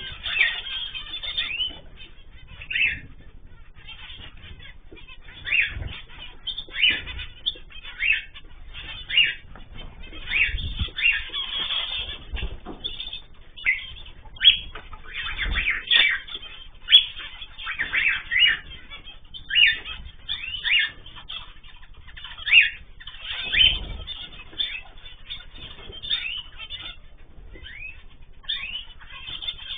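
Aviary of cage birds, cockatiels, zebra finches and canaries, chirping and calling in many short, overlapping chirps, with a few dull low thumps.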